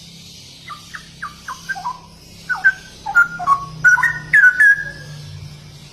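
Straw-headed bulbul (cucak rowo) singing a phrase of short, loud, whistled notes that slide up and down in pitch. The notes start about a second in, grow louder about halfway through, and end with a longer held note near the end.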